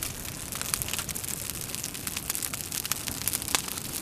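Kindling fire crackling as it catches under the logs of a campfire, with a dense run of small sharp snaps and pops.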